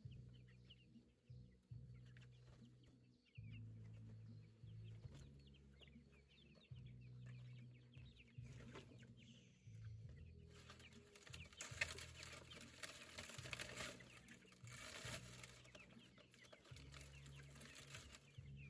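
Domestic chickens clucking softly, with a rustling, scratching noise for several seconds in the second half.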